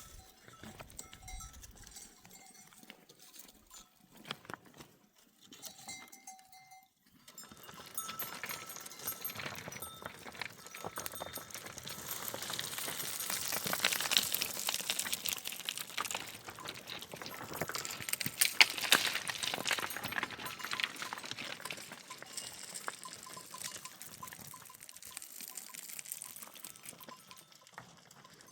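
Livestock bells clinking on a moving flock of goats and sheep: a few scattered rings at first, then many bells and clatter together from about seven seconds in, busiest in the middle and thinning near the end.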